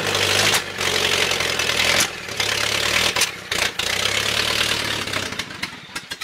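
Freshly rebuilt Lada VAZ-2101 inline-four engine running on a stand with its carburettor worked by hand. It runs loudly and steadily, with brief dips in its sound a few times.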